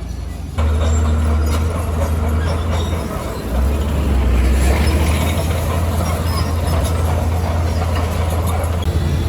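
Diesel engine of a Komatsu D21P crawler bulldozer running under load, with metallic track clatter. The sound jumps louder suddenly about half a second in.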